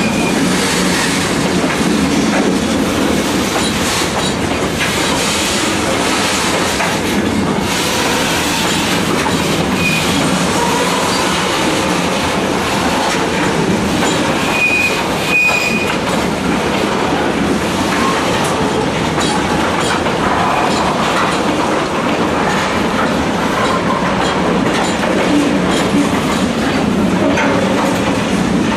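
Freight train cars, mostly tank cars, rolling past on the adjacent track: a steady rumble and clatter of steel wheels on the rails, with a few short, high wheel squeals.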